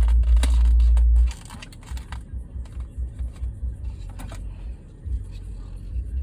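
Uneven low rumble of a car with its engine running, heard from inside the cabin, loudest for about the first second, with scattered clicks and rustling from the phone being handled.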